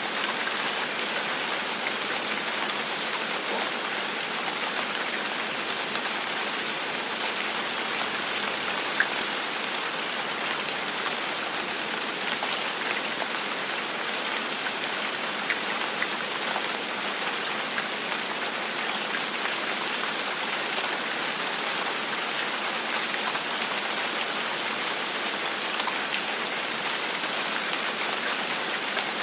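Steady gentle rain falling, an even hiss with occasional individual drops ticking.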